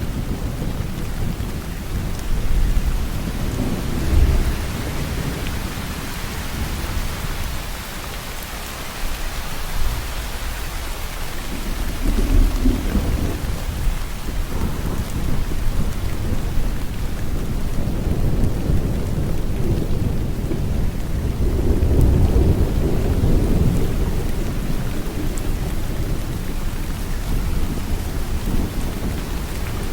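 Steady heavy rain falling, with low rolls of thunder rumbling underneath: one about four seconds in, another around twelve seconds, and a longer one a little after twenty seconds.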